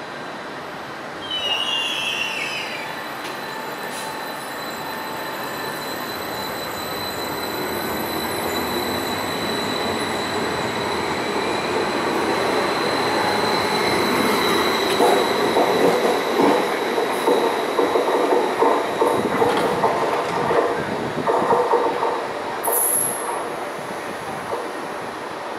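Electric multiple-unit passenger train pulling away from a station and passing close by: a steady high whine, growing louder as it gathers speed, then a fast run of wheel clicks over rail joints as the cars go past, with a brief high wheel squeal near the end.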